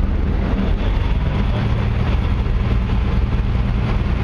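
Boat engine running steadily with a low drone, under a loud, even rushing noise.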